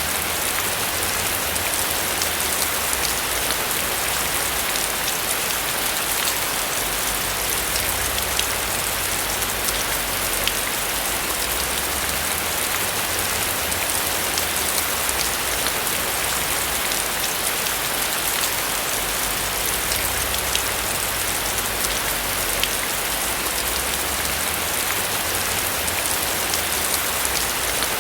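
Steady rain falling on a roof: an even hiss of rain with many small drop ticks scattered through it and a low rumble underneath.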